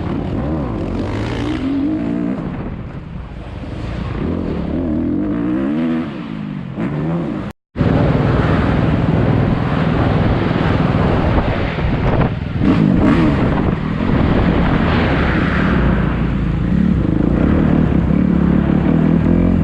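Four-stroke motocross bike engine revving up and down through the gears while riding laps, loud and close. About seven seconds in it cuts off for a moment, then comes back louder.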